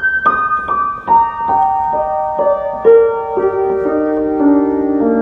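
Background piano music: single notes played one after another about every half second, stepping steadily downward in pitch, each left ringing under the next.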